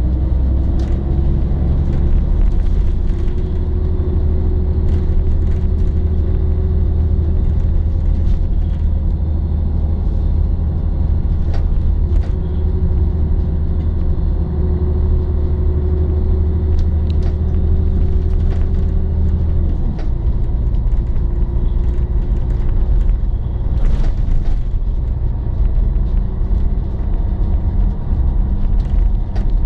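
Diesel engine of a Scania L113 city bus, an 11-litre six-cylinder, running steadily under way with a strong low drone. Its pitch holds and then drops about eight seconds in and again about twenty seconds in, with light clicks and rattles throughout.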